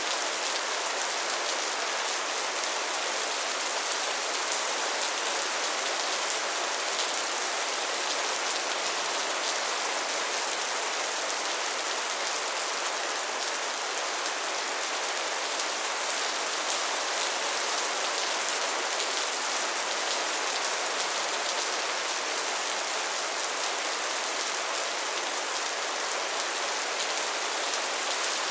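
Steady rain pattering on a tin roof, a dense, even hiss of drops that keeps up without a break.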